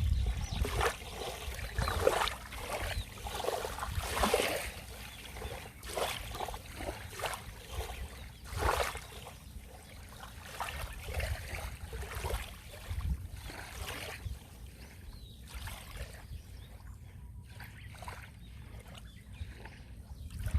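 Small sea waves lapping and splashing against the shore in irregular splashes over a low rumble of surf, busier at first and calming in the last few seconds.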